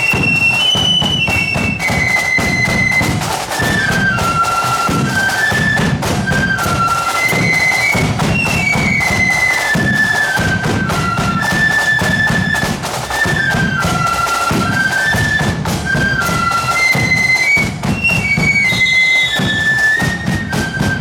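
Marching flute band playing a tune, the flutes carrying a high melody in unison over steady bass and side drum beats.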